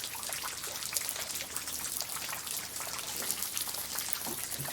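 Steady rain falling, with many small drop impacts ticking close by over an even hiss.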